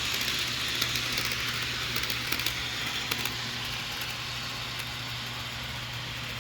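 HO scale model diesel locomotive running on its DCC sound decoder: a steady diesel engine drone from the small onboard speaker, with wheel rumble and a few sharp clicks as the train rolls over track joints. The sound fades a little after the first few seconds as the train moves along the loop.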